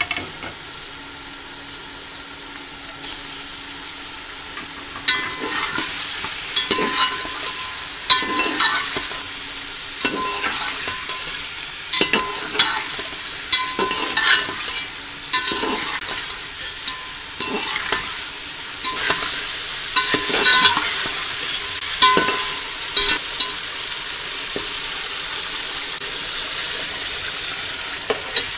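Beef pieces frying and sizzling in oil and masala in a metal pot while a perforated metal spoon stirs them, scraping and clanking against the pot every second or so from about five seconds in. The sizzle grows denser near the end.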